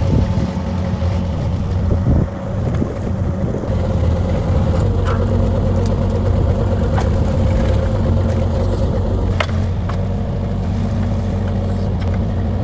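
Backhoe's diesel engine running steadily while digging, with a few sharp clicks over it and a brief dip in level about two seconds in.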